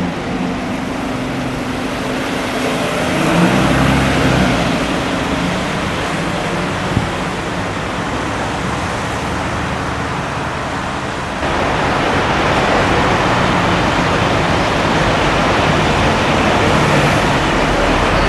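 Road traffic: vehicle engines running over a steady wash of tyre noise, growing louder about eleven seconds in.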